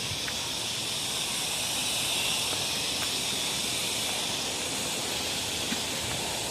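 Steady high-pitched drone of forest insects, swelling slightly about two seconds in.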